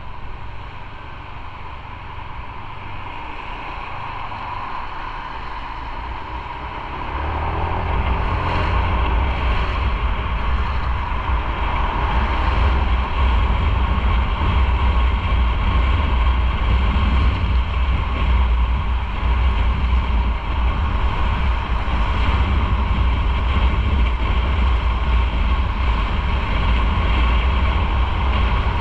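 Motorcycle under way, its engine and the wind rush over the microphone making a steady noise with a deep rumble, growing louder about seven seconds in.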